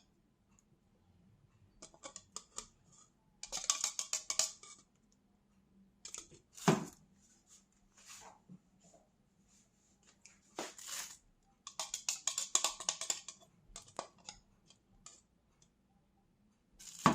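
Additive bottles and oil containers being handled, giving short bursts of rapid clicking and clattering, with a single louder knock about seven seconds in and another near the end.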